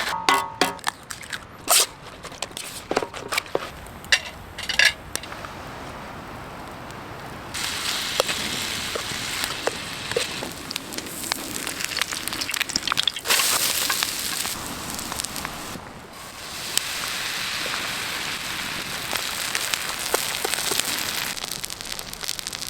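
Okonomiyaki batter sizzling on a hot pan, with sharp clicks and knocks of utensils in the first few seconds. The sizzle jumps up about seven seconds in and swells again a few seconds later.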